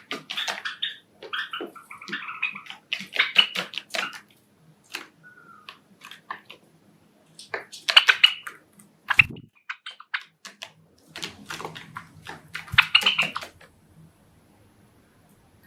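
Pet Java sparrows pecking, with quick runs of clicking bill taps in several clusters and short chirps among them. There is a dull thump about nine seconds in.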